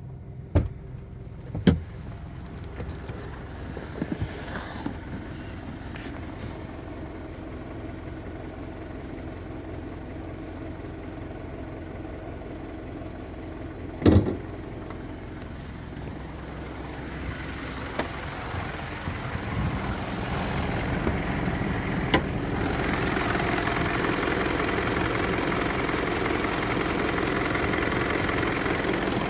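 Mitsubishi Pajero 3.2 DI-D four-cylinder turbo-diesel idling with a steady clatter that the owner questions as a possible engine knock. The running grows louder about two-thirds of the way through, and a few sharp knocks stand out, the loudest about halfway through.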